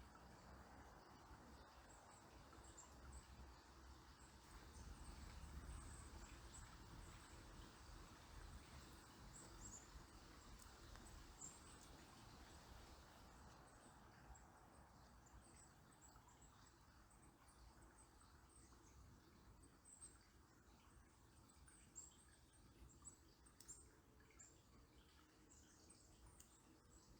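Faint natural ambience: many short, very high-pitched bird chirps scattered over a low, steady wash of flowing river water.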